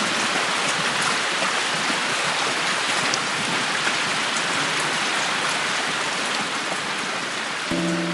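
Steady rain falling, a dense even hiss with a few faint drop ticks. Near the end a held music chord comes in over it.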